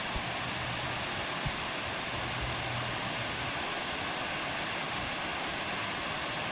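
Steady rush of a river flowing out below a dam, with water pouring from the dam.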